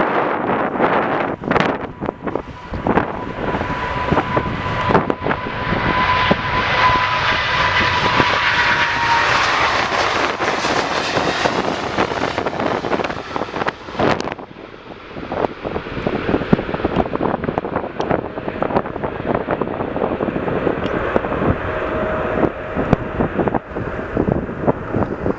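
Jet airliner's engines as it passes on departure: a broad rushing sound with a steady whine that drops slightly in pitch, swelling and then falling away about halfway through. Gusts of wind buffet the microphone.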